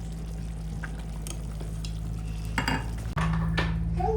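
Kitchen work: utensils clinking against pots and dishes, with a few sharp clicks and knocks in the second half, over a steady low hum.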